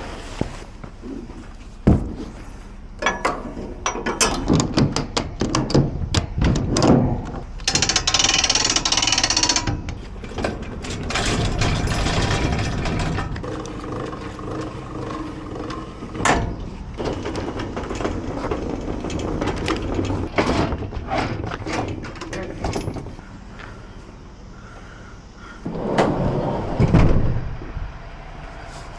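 Mechanical clicking, rattling and scraping as a boxed furnace is unloaded and moved. A quick run of knocks and clicks comes first, then a brief hiss, then a steadier rolling, clattering noise, with a loud clatter near the end.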